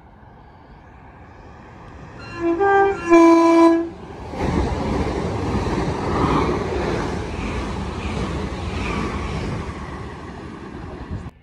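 Class 387 electric multiple unit sounding two blasts on its horn, the second longer, as it approaches. It then passes close at speed with a loud rush of wheel and air noise, which cuts off suddenly near the end.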